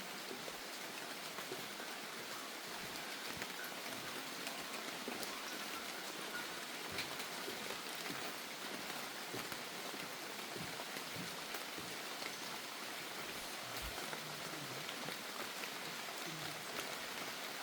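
Steady rain, an even hiss with faint scattered drops ticking.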